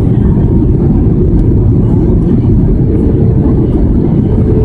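Steady loud rumble of engine and airflow noise inside an Airbus A320 cabin, with a thin steady hum coming in about three seconds in.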